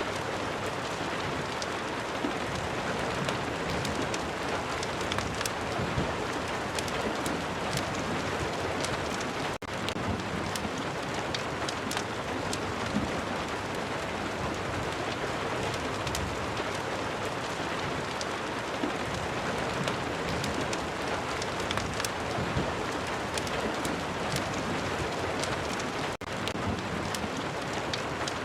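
Steady rain falling, with many sharp crackles and pops from a wood fire scattered through it. The sound dips very briefly twice.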